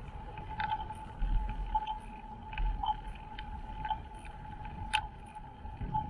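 Riding noise from a bicycle on city streets: low wind rumble on the microphone and road noise, with scattered clicks and rattles, the sharpest about five seconds in, over a steady faint high tone.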